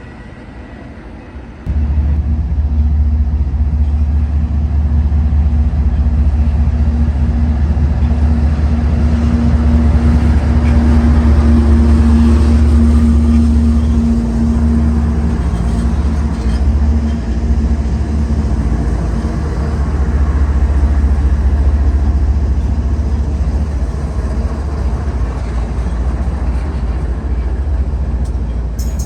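A train rumbling past, loud and very low. The rumble starts suddenly about two seconds in, with a steady hum over it that fades out about halfway through.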